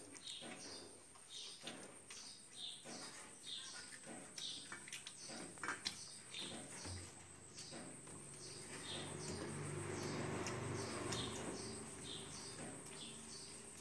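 A small bird chirping over and over, about two short falling chirps a second, with scattered light clicks and clinks from the steel plates. Past the middle a low hum swells for a few seconds, then fades.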